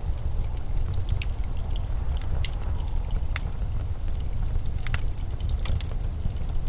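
Blizzard wind as a steady deep rumble, with scattered sharp crackles and ticks over it.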